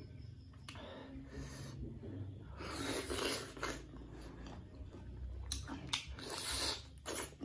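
Mouth sounds of eating unripe fruit: crunching bites and chewing in irregular bursts, loudest about three seconds in and again near the end.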